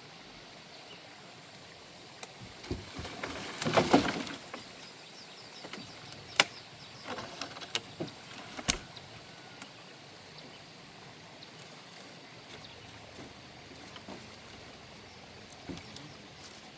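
Branches and wood being handled: a burst of rustling and crackling about three to four seconds in, then a few single sharp knocks a second or so apart.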